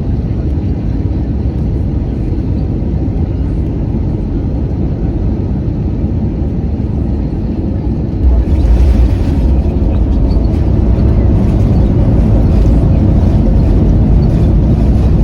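Airbus A320 cabin noise during landing: a steady rumble of engines and airflow, then about eight seconds in a sudden jump in level with a heavier low rumble and rattling, typical of the main wheels touching down on the runway, the noise staying loud and building a little over the following seconds.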